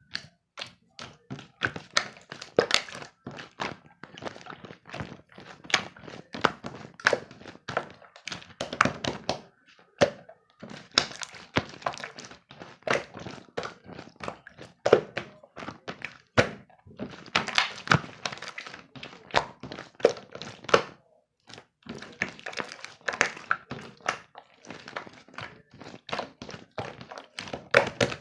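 Rapid, irregular thunks and taps, several a second, coming in clusters with short pauses between them.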